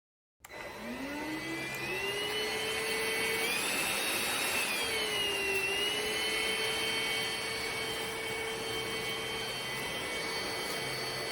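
Cordless stick vacuum motor switched on: it spins up with a rising whine within about a second, then runs steadily, its pitch dipping briefly around the middle before settling back.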